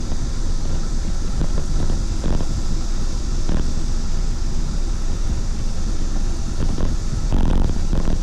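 Steady wind rumble on the microphone of a moving bicycle rider, with a few brief louder gusts.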